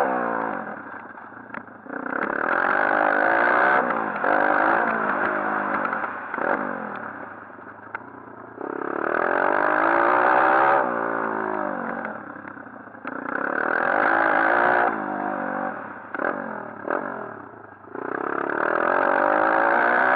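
140cc pit bike engine revving hard and falling back off the throttle again and again, about four surges, with a few sharp clacks in the lulls between.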